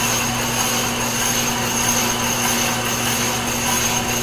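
Steady mixed machine-shop drone: a rotary phase converter humming, the Kearney & Trecker horizontal mill running and a shop vacuum sucking air through the end of the fiberglass tube. A constant low hum runs under a high, steady whine.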